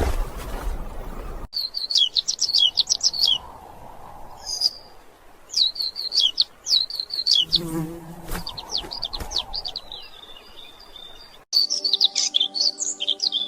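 A small songbird twittering in quick runs of sharp, down-slurred chirps, phrase after phrase. A rush of wind-like noise cuts off about a second and a half in, and a steady low hum joins the chirping near the end.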